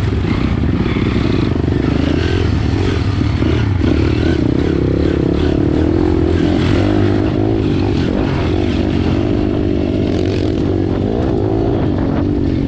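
Small four-stroke pit bike engine running hard on a race track, the revs rising and falling continuously, with a strong rumble and rushing noise underneath.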